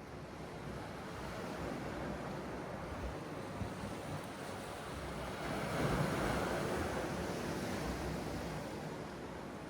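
Sea waves washing in, one wave swelling loudest about six seconds in and then easing off, with wind rumbling on the microphone.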